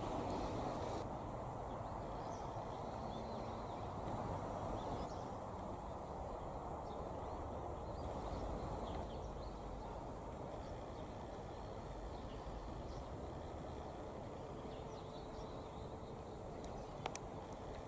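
Steady low outdoor background noise with faint, scattered high chirps, and a single sharp click near the end.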